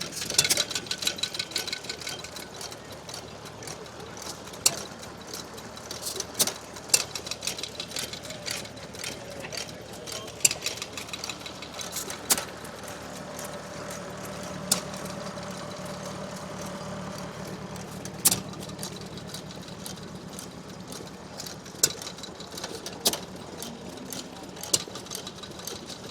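Vintage stationary farm engines running, with a steady mechanical chugging under sharp cracks that come at uneven gaps of one to four seconds, the sound of hit-and-miss engines firing only now and then. Dense clicking fills the first couple of seconds.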